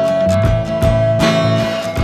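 Folk-rock band playing an instrumental passage: strummed acoustic guitar over bass notes, with one high note held steadily throughout.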